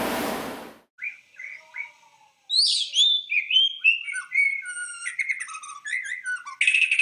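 Songbird singing: a few short chirps, then a rapid, varied run of whistled notes gliding up and down, ending in a short buzzy flourish.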